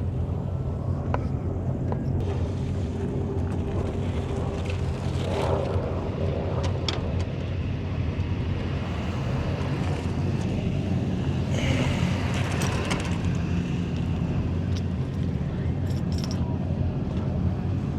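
Off-road race vehicle engines running with a steady low rumble.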